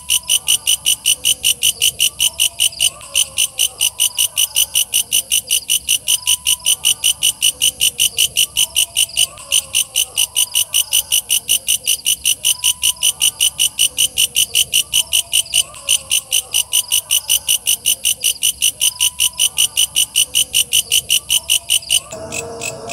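Walang kecek katydid calling: a loud, fast, even train of shrill pulses, about four to five a second, over fainter repeating calls. About a second before the end the pulses abruptly drop in level.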